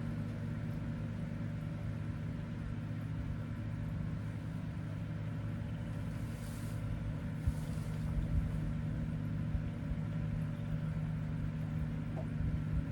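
Steady drone of a distant airboat's engine and propeller, holding an even pitch with a low rumble underneath.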